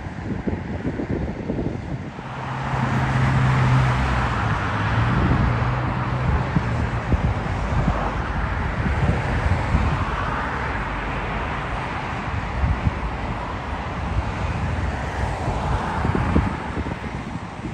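Jet airliner engines, a loud roar that swells about two seconds in and holds steady, with wind buffeting the microphone.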